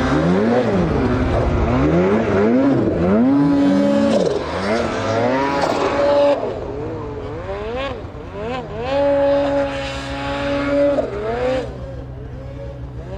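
Snowmobile engine revving up and down again and again as the throttle is worked on and off. After about six seconds it holds a steady pitch for a second or two at a time between dips.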